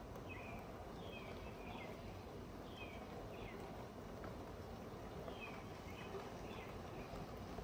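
Birds chirping outdoors: short, high chirps that fall in pitch, coming every second or so, over faint steady background noise.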